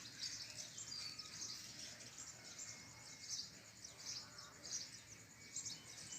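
Birds chirping: a steady stream of short, high chirps.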